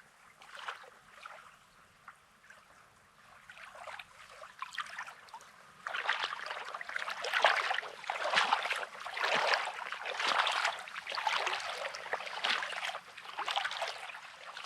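Small sea waves washing and trickling over a rocky, pebbly shore, growing louder about six seconds in.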